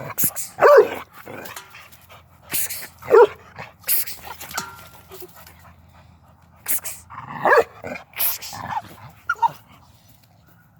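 Pit bull barking: a string of about six short, loud barks at irregular gaps, which thin out and stop about a second before the end.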